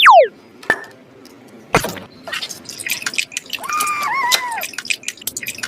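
Cartoon sound effects: a quick pitch swoop up and down, a sharp pop and a thud, then a run of dripping, clicking sounds with a short warbling tone.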